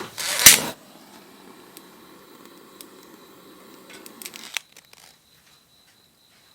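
A short, loud rustling burst with a sharp click about half a second in. Soft rustling with scattered small crackles follows and stops after about four and a half seconds, when a cricket's steady high chirring takes over.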